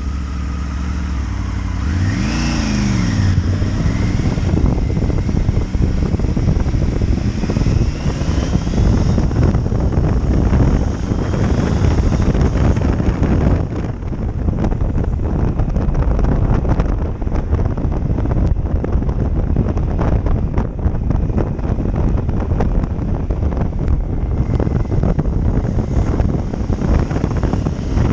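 A motorcycle engine under way, its pitch rising and then falling briefly about two seconds in. After that it runs on under heavy wind rush and buffeting on the microphone at road speed.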